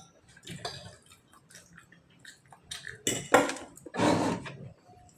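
Eating sounds: food handled on a plate and mouth sounds of chewing, a string of short noisy sounds with the loudest a little after three seconds in and a longer one about four seconds in.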